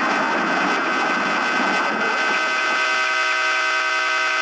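Rushing running noise of a passing train, thinning out after about two seconds while several steady tones come up.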